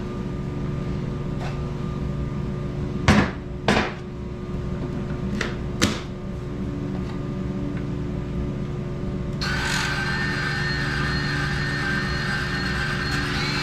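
DeWalt 20V battery pack being pulled off one cordless tool and snapped onto another, with a few sharp plastic clicks. About nine and a half seconds in, a DeWalt cordless portable band saw switches on and runs steadily, over a low steady hum.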